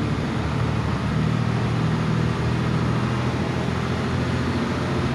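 Hino 1J bus diesel engine running steadily under way, its pitch rising a little about a second in.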